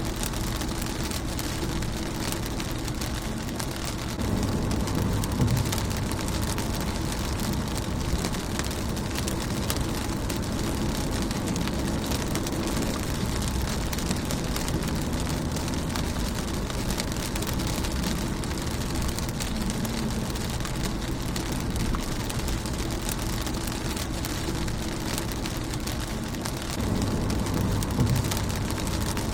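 Rain pattering on a car windshield: a steady hiss of many small drop impacts. A low rumble swells twice, once about four seconds in and again near the end.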